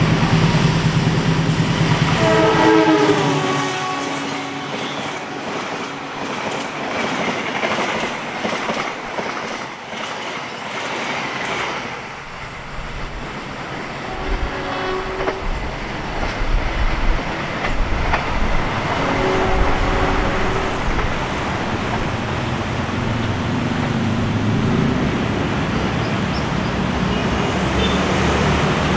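Diesel-hauled passenger train passing on a curve: the locomotive's engine runs loud, then its multi-tone horn sounds about three seconds in, the notes dropping in pitch as it goes by. The coaches follow with steady rolling noise and wheels clattering over rail joints, with fainter horn blasts later.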